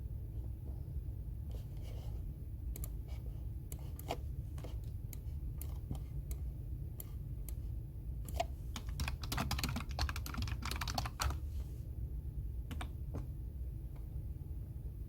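Typing on a computer keyboard: irregular keystrokes with a quick run of fast typing about nine to eleven seconds in, over a steady low hum.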